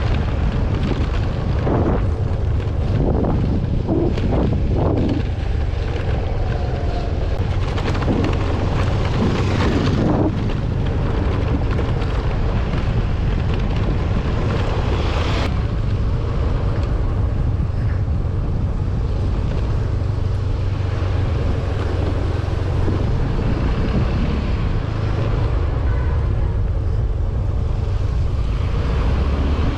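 Wind buffeting the microphone over a moving vehicle's running and road noise, with a few knocks and rattles in the first ten seconds or so.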